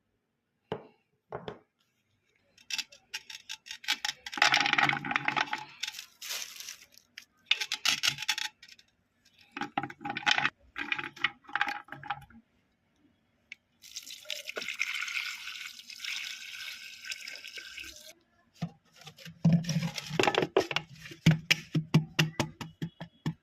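Aconite roots being handled in water: bursts of splashing and clattering knocks, with a steady pouring hiss for about four seconds in the middle.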